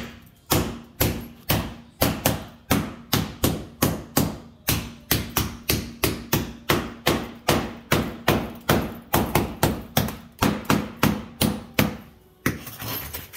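Hammer driving a small masonry chisel into a ceramic floor tile to break it up, with sharp, evenly spaced blows about three a second. The blows stop near the end.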